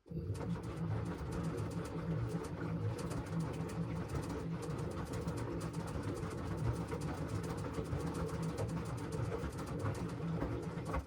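LG washing machine running: a steady low rumble with dense rattling clicks, starting and cutting off abruptly.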